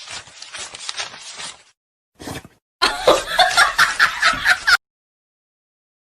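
A rapid run of short noisy strokes, then about two seconds of laughter that cuts off suddenly.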